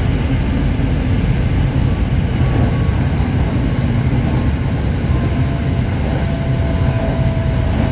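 Steady low rumble of a moving passenger train, heard from inside the carriage: wheels running on the rails with the body noise of the car. A faint steady whine joins in about five seconds in.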